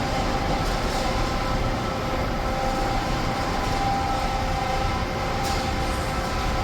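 Overhead hoist crane travelling on its wheels, with a steady rumble and a steady whine from the geared travel motor. The crane is running on a newly replaced travel-wheel bearing and geared motor.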